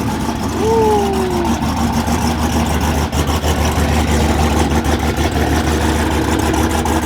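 Highly modified Dodge Hellcat's supercharged V8, built to almost 2,000 horsepower, running loud and steady with a deep low drone.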